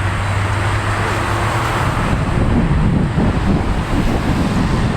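Turbofan engines of a Boeing 787-9 airliner at takeoff thrust, a steady loud jet noise as the aircraft climbs away after lifting off.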